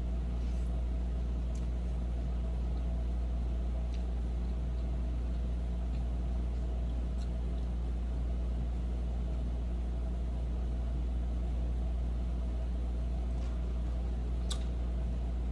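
A steady, unchanging low machine hum, with a few faint clicks over it.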